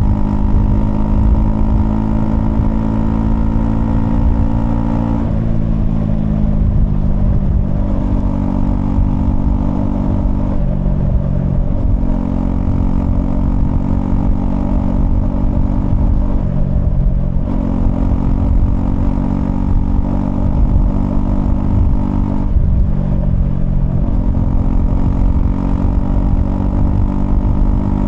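Honda CL250's single-cylinder engine running under way, its note dropping and picking up again about five times as the throttle and gears change.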